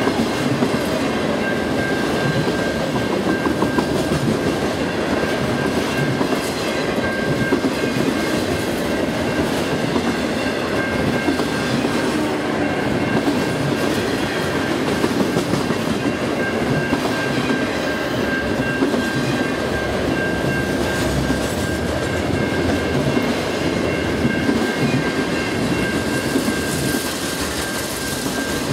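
Freight train of enclosed autorack cars rolling steadily past at close range: continuous wheel and rail rumble with repeated clicking as the wheels cross rail joints. A thin high-pitched ringing tone comes and goes over it.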